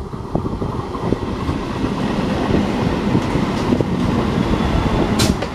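Electric multiple unit (EMU) local train passing close by, a steady rumble and clatter of its wheels running on the rails. A short sharp noise stands out about five seconds in.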